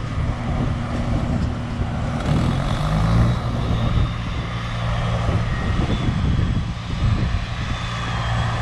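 Heavy diesel machinery engine running steadily with a low, even drone.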